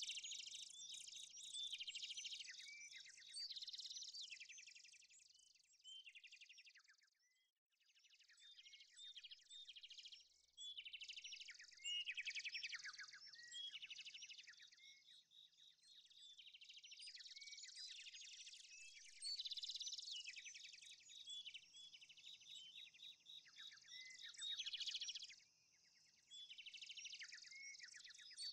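Faint chorus of several birds singing and chirping, with quick high chirps and short falling notes overlapping, easing off briefly about seven and a half seconds in and again near the end.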